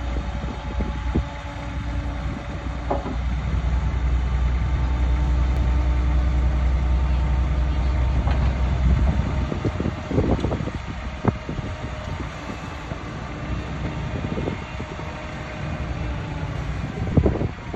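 Heavy earthmoving machinery running: a low, steady diesel drone that eases off about halfway through. It is followed by scattered metallic clanks and knocks.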